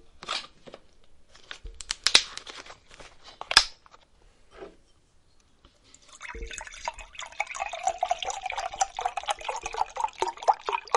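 Clicks and crinkles of a juice bottle being handled, then from about six seconds in a steady pour of apple juice into a cup.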